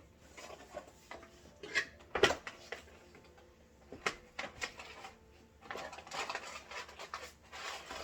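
Hard plastic vacuum parts being handled: scattered knocks and clicks, with brief rustling about six seconds in and again near the end.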